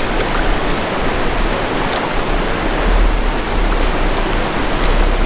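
Steady rush of water from a mountain stream, a continuous even noise with a low rumble underneath.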